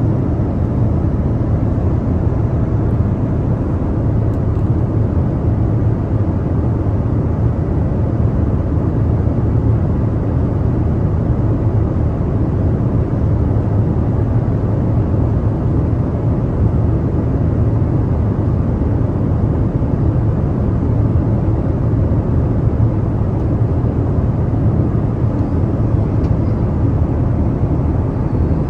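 Airliner cabin noise in flight, heard from inside the cabin: a steady, deep rush of engine and airflow noise that does not change.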